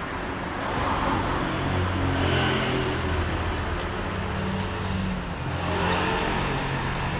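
Car engine running in street traffic, its pitch rising and falling twice.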